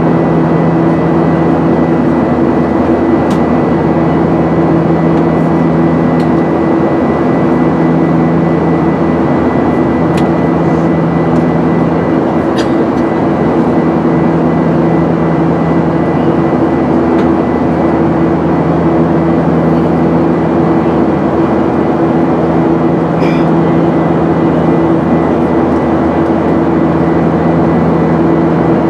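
Steady cabin noise of a Boeing 737-900ER jet airliner: engine and airflow roar with a constant low hum, the level unchanging throughout, and a few faint ticks here and there.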